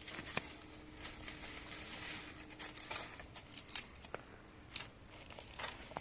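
Rustling with scattered light clicks and taps, and a faint steady hum that stops about halfway through.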